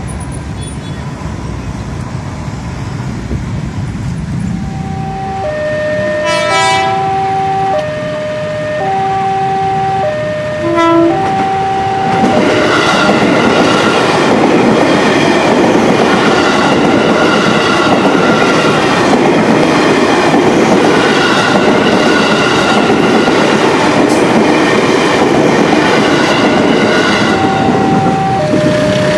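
Level-crossing alarm sounding a repeating pattern of tones, with two short horn blasts from the approaching electric commuter train about six and eleven seconds in. From about twelve seconds in the train passes over the crossing: a loud, steady rumble and clatter of wheels on the rails that covers the alarm until near the end, when the alarm tones come through again.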